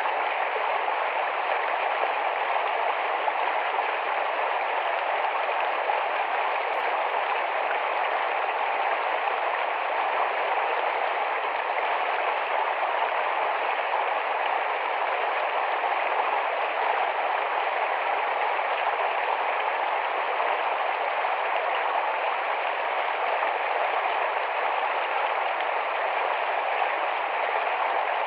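Shallow, fast-flowing forest stream: a steady, even rush of running water.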